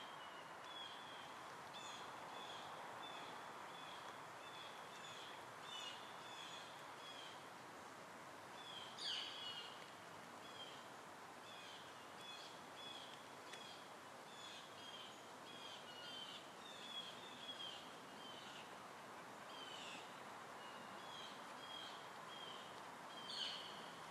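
Small birds chirping, a steady run of short high notes over a faint outdoor hiss, with two louder downward-sweeping calls, one about nine seconds in and one near the end.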